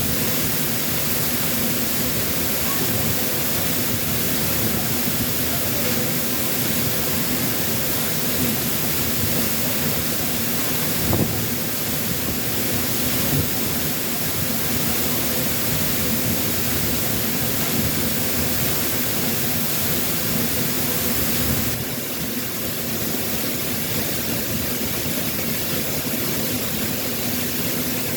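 Waterfall pouring: a steady rush of falling water that drops slightly in level about 22 seconds in.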